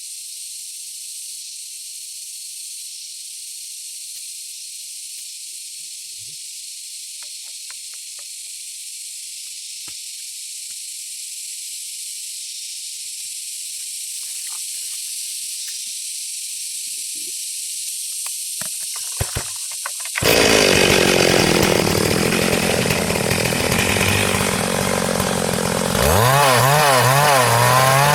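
A steady high hiss, then about 20 seconds in a Stihl MS382 chainsaw cuts in abruptly, ripping through a hardwood log. Near the end its engine speed swings up and down, so the pitch wavers.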